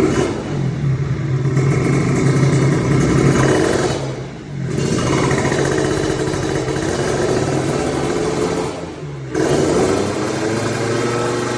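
Kawasaki Ninja 150 RR two-stroke single revving through a Nens 41 aftermarket exhaust, the revs climbing and held, then dropping back briefly twice, about four and about nine seconds in.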